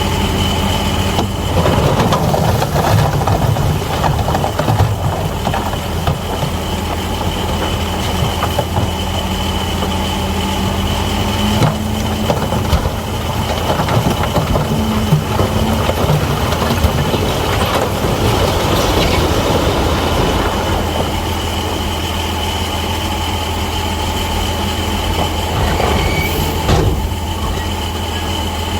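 Crawler bulldozer's diesel engine running steadily under a continuous high whine, with track and blade clanking and scraping. The clatter is busiest through the first two-thirds and settles toward the end.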